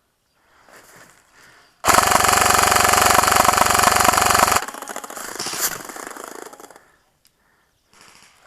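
G&P M249 MKII airsoft machine gun firing one long full-auto burst of about three seconds, a dense rapid rattle from its electric gearbox that cuts off sharply. A quieter rattle of fire carries on for about two more seconds before fading.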